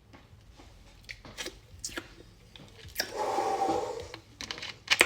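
Close-up eating of fried chicken: crunching and chewing with small crackles and clicks. Just past the middle there is a louder, held sound lasting about a second.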